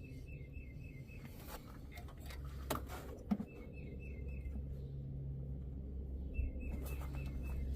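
A songbird repeating a short phrase of quick, even chirps three times, with a few sharp clicks and knocks in between, over a steady low hum.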